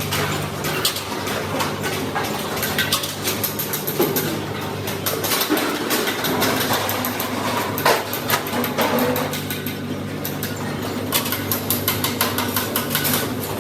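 Scattered metal clinks and taps over a steady low machine hum, typical of sheet-metal work.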